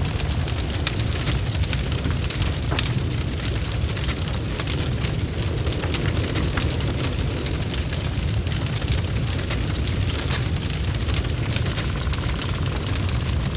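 Bonfire burning with a steady low rumble and many sharp, irregular crackles and pops.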